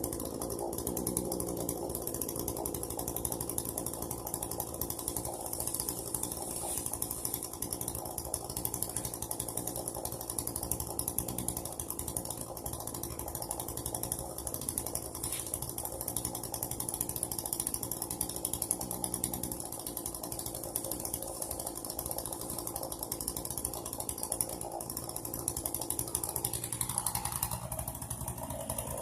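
Two-stroke chainsaw engine running steadily, with a fast, even rattle.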